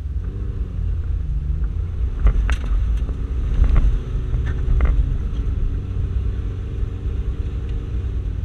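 Toyota Land Cruiser 120 rally car's engine running hard on a dirt track, heard from inside the cabin as a deep rumble whose pitch rises and falls several times with the throttle. There are several sharp knocks between about two and five seconds in.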